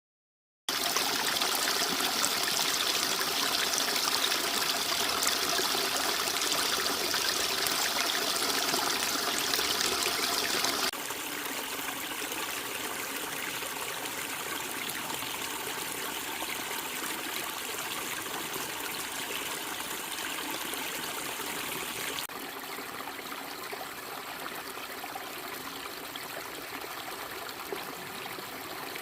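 Mountain valley stream flowing, a steady rush and trickle of water. It starts abruptly about a second in and drops suddenly to a quieter level twice, about a third of the way through and again later.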